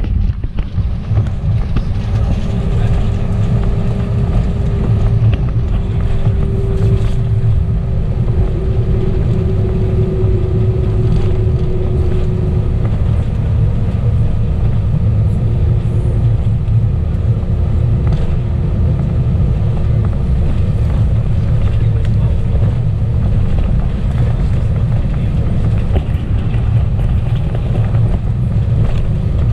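Steady low rumble of an Airbus A320 airliner's engines and airframe heard from inside the passenger cabin. A faint steady tone sits above the rumble, sagging slightly in pitch in the first half and then fading.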